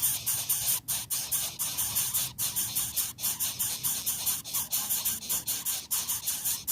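A high-pitched hiss that pulses several times a second.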